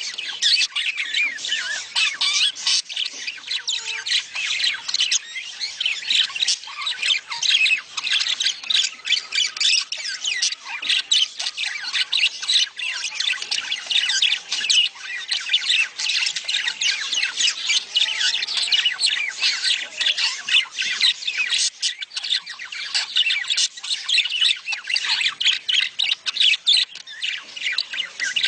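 A flock of budgerigars chattering in breeding mood: many rapid high chirps and warbles overlapping without a break.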